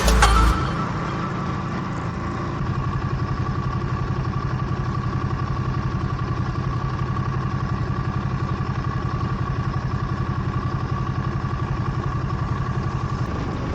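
Motorcycle engine idling steadily with an even, rapid pulse, after background music cuts off about half a second in.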